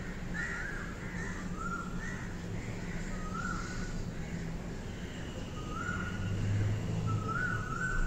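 Birds calling outdoors, short calls that each step up in pitch, repeating about once or twice a second over a steady low hum. A thin high tone joins about five seconds in.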